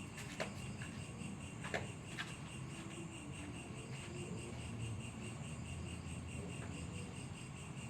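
Crickets chirping steadily in a high, fine pulsing trill, with a few faint clicks in the first two or three seconds.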